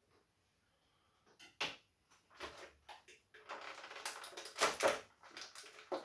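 Stiff plastic blister packaging crackling and crinkling as an action figure is worked out of it. A few sharp crackles start about a second and a half in, and the crinkling grows dense from about three and a half seconds in.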